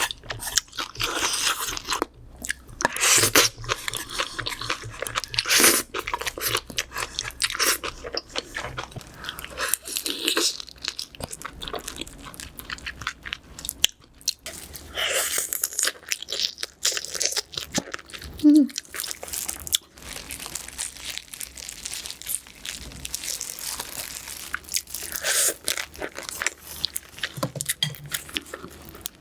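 Close-miked eating of a seafood boil: repeated crunching bites and wet chewing, in irregular bursts.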